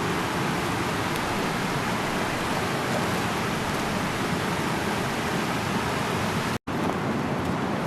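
Rushing mountain river: a steady, even roar of fast-flowing water, breaking off for a split second about six and a half seconds in.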